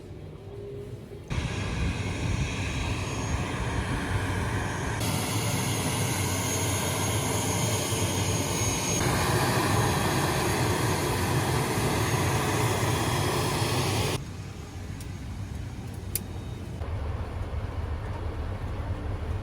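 Small airliner's engine noise, a steady rush with a low hum, in several short segments that cut abruptly from one to the next. It is loudest through the middle and drops to a quieter hum about 14 seconds in.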